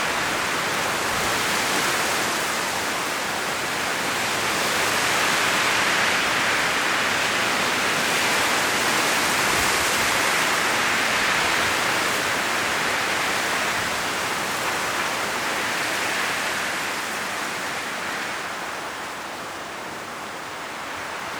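Strong wind blowing through forest trees, the leaves rustling in a continuous rushing hiss that swells in gusts through the middle and eases off near the end.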